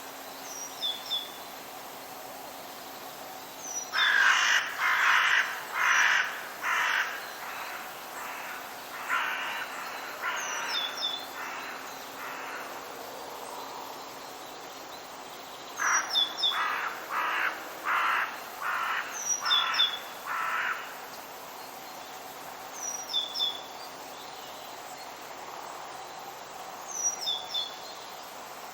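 Harsh, rasping bird calls given in runs of five to eight at about two a second, three runs in all, with a second bird's short, high, falling chirps between them over a steady background hiss.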